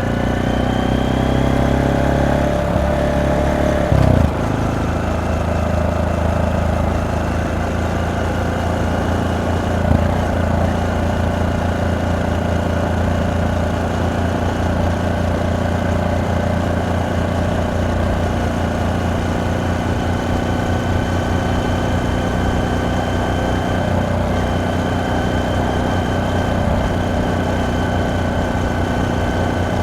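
Honda Monkey 125's single-cylinder four-stroke engine and exhaust, rising in pitch for about four seconds, then a short knock and a drop in pitch, after which it runs steadily.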